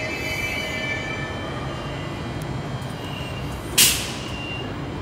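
Queensland Rail suburban train running through the station, its wheels squealing in high thin tones that fade over the first second above a steady rumble. A short, sharp burst of noise about four seconds in is the loudest sound.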